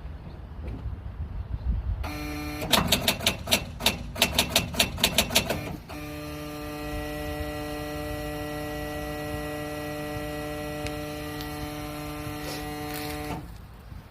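A machine hum at a steady pitch starting about two seconds in, with a run of loud, even clicks, about four a second, over its first few seconds; the hum stops suddenly near the end.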